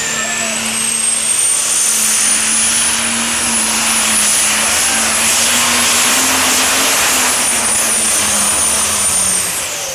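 Super stock pulling tractor's engine at full throttle during a pull, with a high turbocharger whistle that climbs over the first couple of seconds, holds steady, then falls away near the end as the engine is throttled back.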